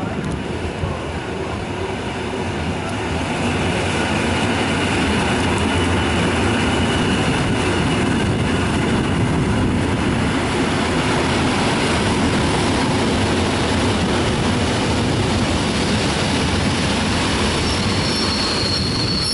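Passenger train pulling in along the platform: loud, steady rumble of wheels on rails that swells a few seconds in. A high wheel or brake squeal begins near the end.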